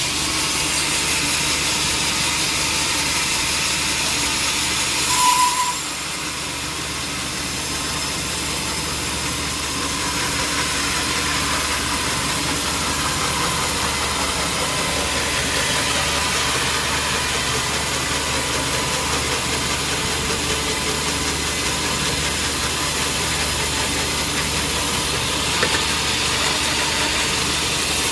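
Sawmill machinery running steadily: a low mechanical hum under a dense hiss, with a brief louder burst and a short high tone about five seconds in.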